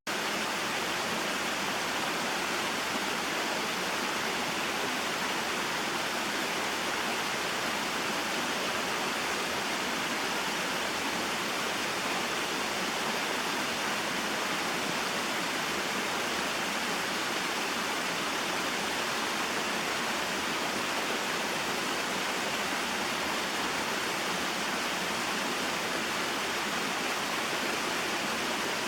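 Small waterfall and mountain stream flowing: a steady, even rush of water that holds without change.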